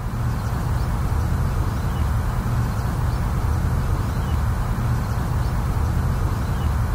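A motor vehicle's engine running steadily, a low pulsing rumble, with faint bird chirps above it.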